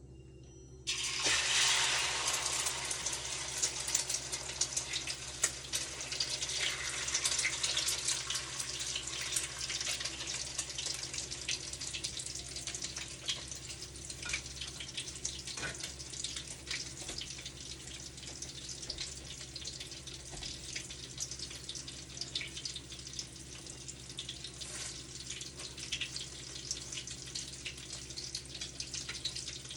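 Egg and chicken frying in a pan with plenty of oil: the sizzling starts abruptly about a second in, loudest at first, with many small crackling pops, then settles to a steady sizzle.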